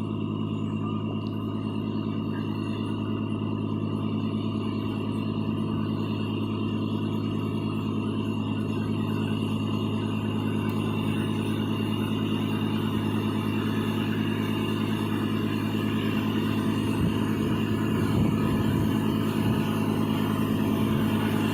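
John Deere tractor engine running steadily, gradually getting a little louder, with a few low thuds near the end.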